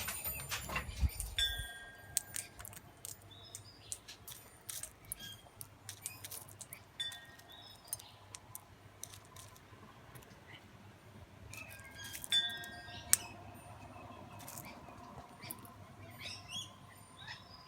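Crimson rosellas feeding at close range: many sharp clicks and taps, the loudest about two-thirds of the way through. A few short, clear whistled calls come at intervals.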